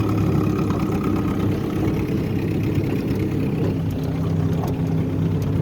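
1983 Johnson 7.5 hp two-cylinder two-stroke outboard motor running steadily at low throttle, throttled back to ride out a boat wake.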